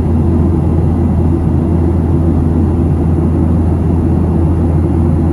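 Steady cabin noise of a Boeing 737-700 with its CFM56-7B jet engines running: a constant low hum and rumble, with no rise or change.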